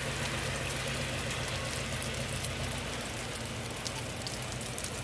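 A vehicle's engine running low and steady as it creeps along a glazed, icy road, with a fine, steady patter of sleet.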